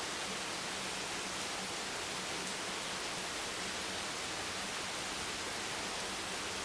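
Steady rain, an even hiss with no separate drops standing out. A faint low hum runs underneath.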